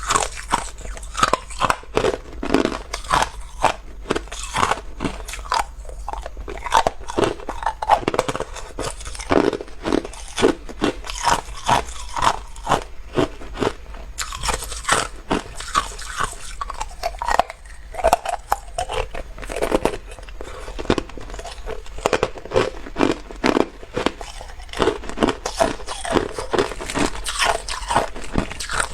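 Hard ice cubes being bitten and chewed close to the microphone: a run of sharp, irregular crunches, several a second, as the ice cracks between the teeth.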